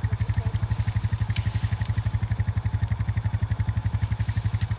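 Four-wheeler (ATV) engine idling with an even, rapid low chugging of about a dozen beats a second. A light clatter about a second and a half in.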